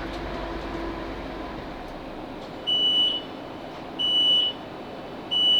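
Door warning beeps of a Class 458 electric train at a station stop: three high beeps about 1.3 s apart, starting a little over two and a half seconds in, each ending on a slightly higher note, over the steady rumble inside the carriage.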